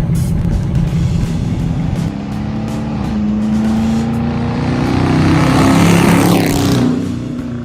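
Hemi V8 car exhaust, running through mini racing mufflers in place of the resonators with a mid-muffler delete, accelerating with the engine pitch rising. It is loudest about six seconds in, then drops off near the end.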